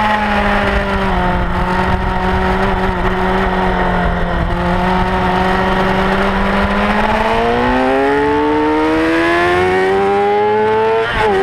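Kawasaki ZX-6R inline-four engine running hard, heard from a camera on the bike: it holds a steady note through a long corner, then the revs climb steadily over the last few seconds as the bike accelerates, with a quick dip in pitch near the end as it shifts up a gear.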